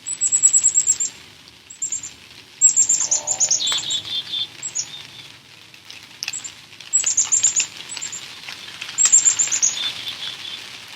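A songbird singing: about six quick phrases of rapid, very high, falling notes, some ending in a lower trill, over a light hiss of rain.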